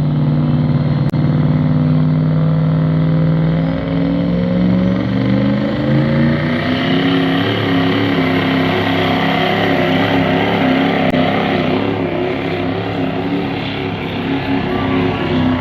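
A truck pull truck's engine running hard: its pitch holds steady, climbs from about four seconds in, then stays high and wavers as the truck pulls under load.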